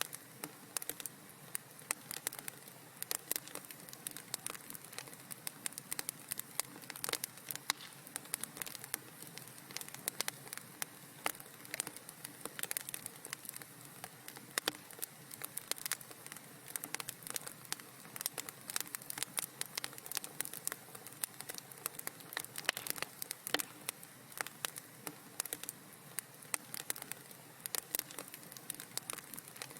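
Wood fire in a fireplace crackling steadily, with frequent sharp irregular pops and snaps over a soft hiss.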